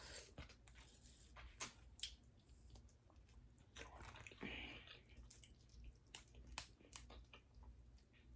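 Faint eating sounds of crawfish and mussels: scattered soft clicks and wet squishes as shells are handled and cracked and the meat is chewed, with a short wet smacking noise about four and a half seconds in.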